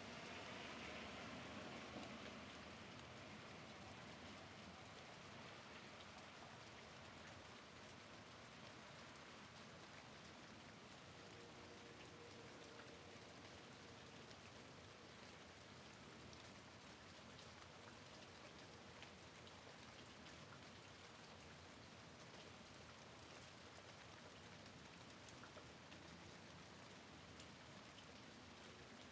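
Faint, steady rain falling, with many small scattered drop ticks; it is a little louder for the first couple of seconds.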